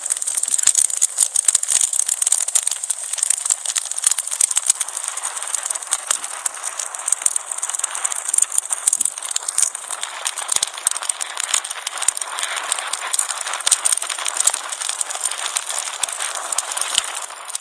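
Fire crackling: a dense run of small pops and snaps over a steady hiss, ending abruptly.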